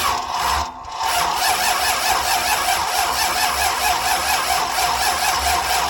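Starter motor cranking a freshly built Ford 351 Windsor V8 for about six seconds, with a brief dip about a second in, without the engine firing: the ignition has no spark.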